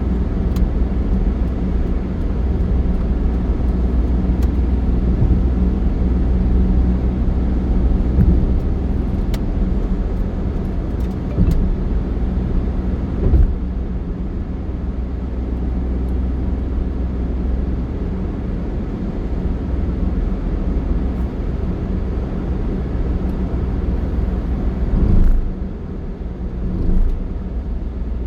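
Steady engine and road rumble of a vehicle driving along, with brief louder swells about halfway through and near the end.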